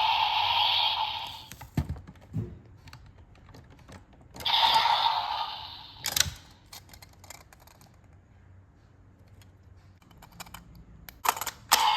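Plastic clicks from a Kamen Rider DX Grease Blizzard Knuckle toy being handled and its buttons pressed, with two hissy bursts of sound effect from the toy's speaker, one fading out at the start and another about four seconds in.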